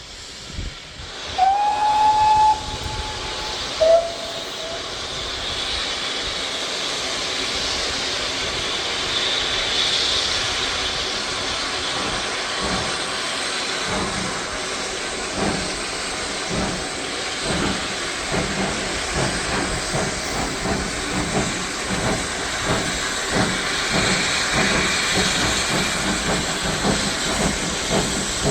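Steam locomotive sounding its whistle twice, a longer blast then a short, lower one, followed by a steady steam hiss. Its exhaust beats then start slowly and quicken as the engine gets under way.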